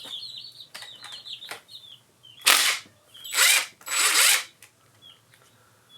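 Cordless power tool run in three short bursts, loosening a 10 mm cam sprocket bolt on a motorcycle engine. Small birds chirp faintly through the first second and a half.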